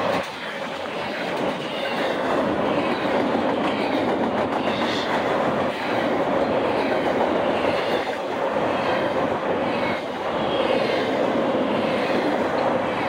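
Doublestack intermodal freight train rolling past: loaded container well cars rumbling and clacking over the rails, with a steady tone running through the noise.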